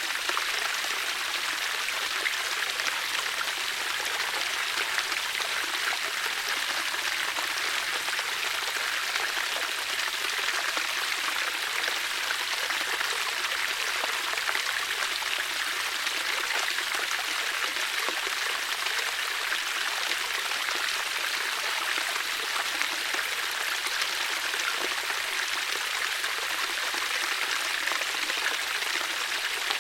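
Flowing water, a steady splashing rush with no change in level.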